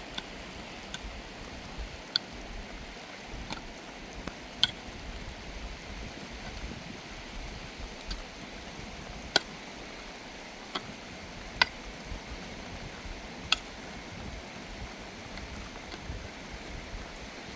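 Steady rain falling, with scattered sharp ticks every second or two, a few of them louder, like heavy drops striking a hard surface.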